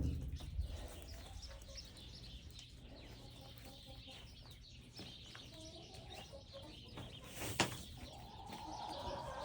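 Hens clucking softly in short, quiet calls, with one sharp knock about seven and a half seconds in.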